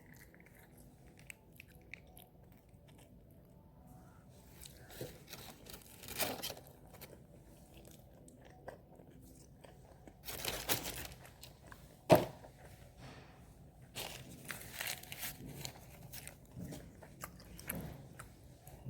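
A person chewing and crunching crunchy fast food at close range, in scattered bursts with quiet gaps, including one sharp click about two-thirds of the way through and a run of small crackles near the end.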